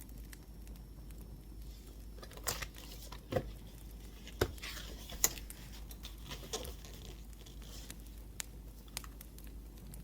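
Paper rustling and crinkling for a few seconds, with some sharp clicks, as pages are handled. Under it runs the faint crackle of a wood fire, with single sharp pops near the end.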